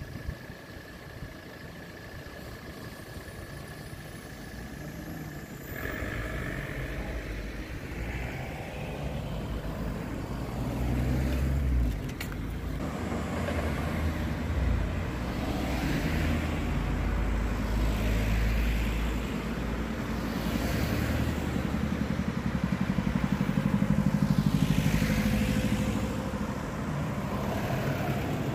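Road vehicles crossing a railway level crossing one after another: engine rumble and tyre noise with several passes, the loudest near the end. A steady high tone stops about six seconds in.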